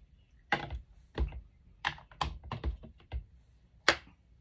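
Irregular light taps and clicks of small craft items being handled and set down on a work table, about nine in all, the sharpest one near the end.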